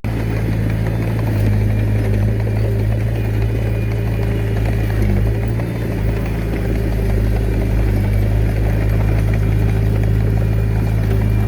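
Komatsu D21A mini bulldozer's diesel engine running at a steady pitch.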